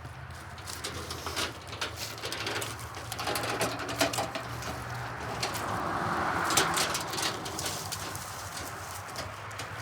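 A pigeon or dove cooing, among sharp dry cracks and crackles, over a steady low hum.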